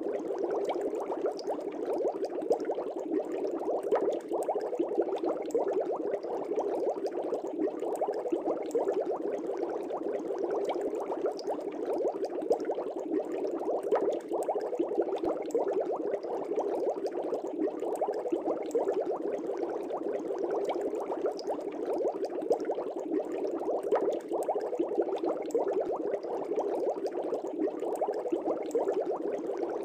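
Air bubbles in a fish tank, bubbling steadily as a dense stream of many small pops.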